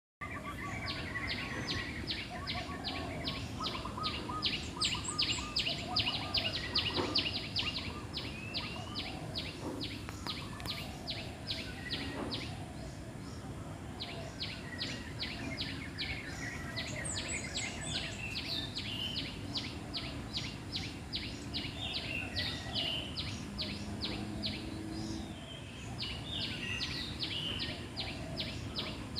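Wild birds calling: a fast, regular series of high chirps, about five a second, pausing twice, with scattered higher chirps and other bird notes over steady outdoor background noise.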